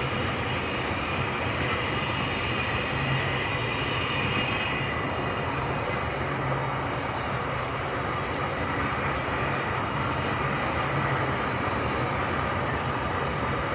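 Double-stack container freight train rolling past, a steady rumble of wagon wheels on the rails that holds even throughout.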